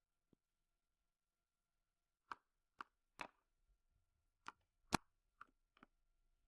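Cutlery tapping and clinking on a plate while the dishes are eaten: about seven short, sharp taps at uneven intervals, starting about two seconds in.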